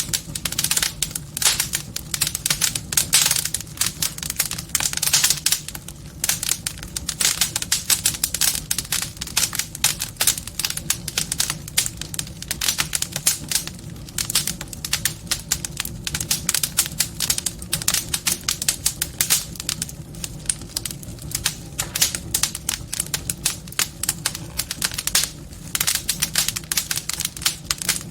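Wood fire crackling in a fireplace: a dense, irregular stream of pops and snaps over a steady low rumble.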